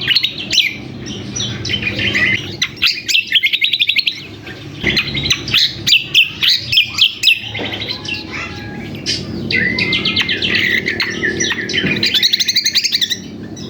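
Cucak kombo (kecial kombok) songbird singing a loud, busy song of rapid chattering notes and fast high trills, with brief pauses between phrases. It is the noisy calling used as a lure to set other birds singing.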